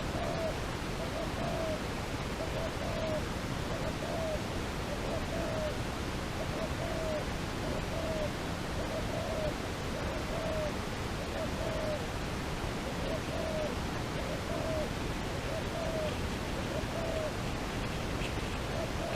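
A bird giving a long, even series of short hooting notes, about one and a half a second, over a steady background hiss.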